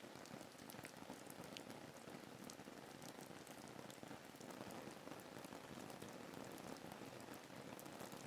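Steady rain ambience, soft and faint: an even hiss of rainfall with many small drop ticks.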